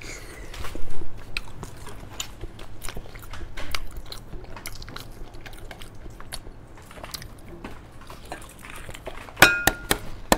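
Close-miked biting and wet chewing of a peeled century egg (preserved duck egg), with small clicks and mouth smacks. A louder bite comes about a second in, and a brief pitched sound comes near the end.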